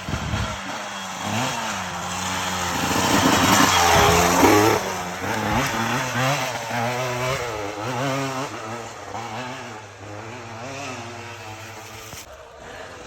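Yamaha YZ144 two-stroke dirt bike engine revving hard, its pitch rising and falling with the throttle; loudest about four seconds in, then fading.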